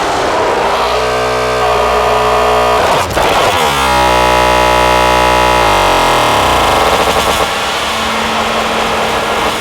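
Modular synthesizer drone (Make Noise Strega with Maths and Morphagene) run through Death By Audio Evil Filter and Absolute Destruction distortion, loud, dense and harsh. Its pitch glides and sweeps, with a brief break about three seconds in, and it turns noisier and grittier over a held low tone in the second half.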